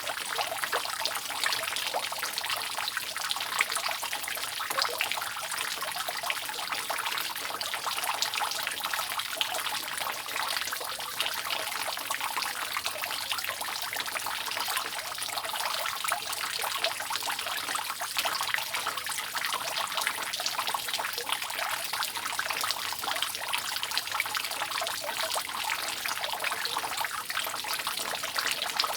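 Water dripping from a roof: many small drips falling densely over a continuous trickle, steady throughout.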